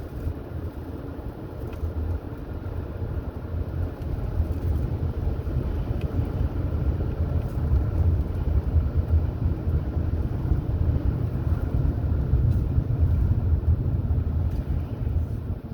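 A car driving: a steady low rumble of engine and road noise, getting a little louder about four seconds in.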